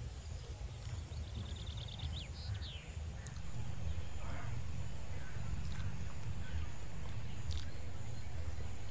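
Outdoor ambience: birds chirping a few quick calls in the first three seconds over a steady low rumble, which grows louder about three and a half seconds in and then holds steady.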